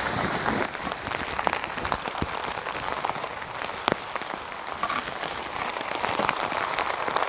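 Heavy rain falling steadily, with many individual drops striking a nearby surface in sharp, irregular taps.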